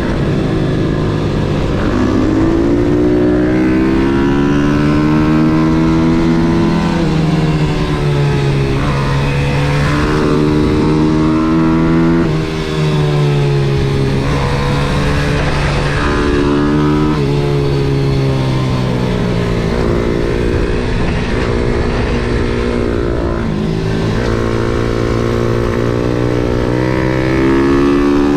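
MRF 140 SM pit bike's single-cylinder four-stroke engine heard onboard at speed on track. Its pitch climbs as it revs up through the gears, then drops back with each upshift and on downshifts into corners, over and over.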